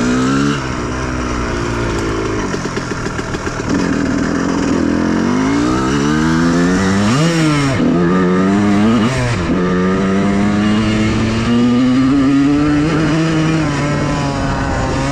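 Honda CR125R's single-cylinder two-stroke engine under way, its pitch rising and falling with the throttle and gear changes. It drops to a low putter about three seconds in, then climbs again, with a few quick swoops near the middle and a steady rise in revs toward the end.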